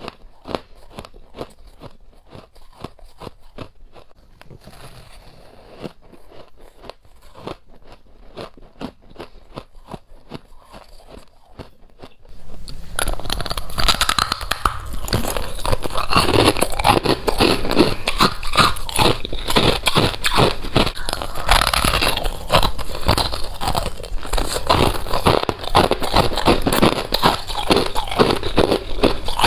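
Close-up crunching of frost being bitten and chewed: a rapid run of crisp crunches. About twelve seconds in the crunching becomes much louder and fuller.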